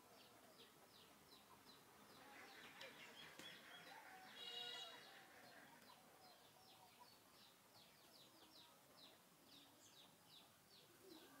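Faint birdsong: short high chirps repeated over and over, several a second, with one longer call about four and a half seconds in.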